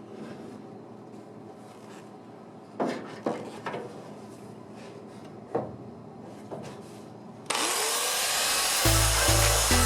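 A few light knocks and clinks over a quiet background, then a sudden loud hissing rush about seven and a half seconds in, and intro music with a pulsing bass beat starting near the end.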